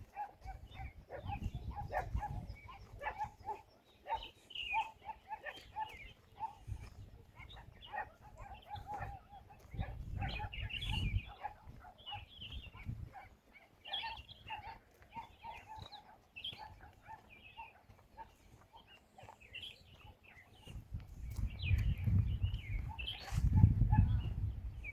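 Birds calling and chirping, a mix of short high chirps and a repeated lower call, with bursts of low rumble that grow loudest near the end.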